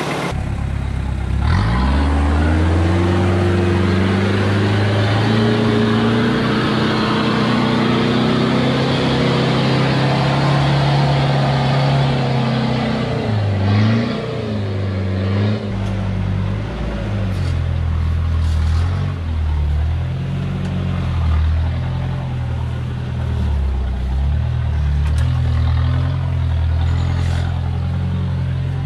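Hilux's 3.0 litre turbo diesel engine revving under load while off-road driving: the pitch climbs about a second and a half in and holds, dips and recovers around the middle, then rises and falls repeatedly as the throttle is worked.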